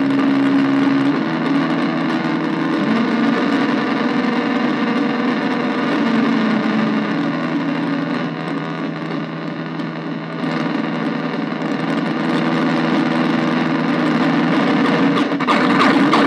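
Arturia MicroBrute and Casper Electronics Nova Drone analog synthesizers, cross-patched and played through a bass practice amp, holding a dense, distorted drone of layered pitches. The pitches shift now and then, the sound turns brighter about ten seconds in, and it breaks into choppy pulsing near the end.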